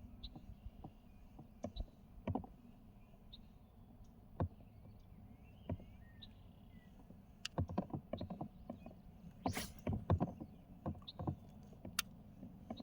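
Scattered knocks and clunks of objects being handled, coming thicker about eight to ten seconds in, with faint bird chirps behind.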